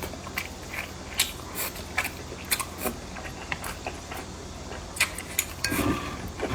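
Close-miked eating: chewing with irregular mouth clicks and smacks.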